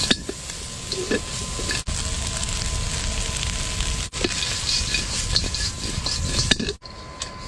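Cured pork ribs sizzling in hot fat as they are stir-fried in a pot, with scattered small crackles. The sizzle cuts out abruptly for a moment three times.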